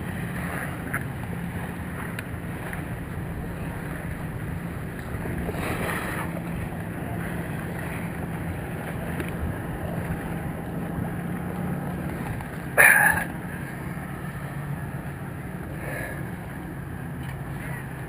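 Sailboat's inboard auxiliary engine running steadily, a low even hum under wind and water noise. A brief loud burst stands out about thirteen seconds in.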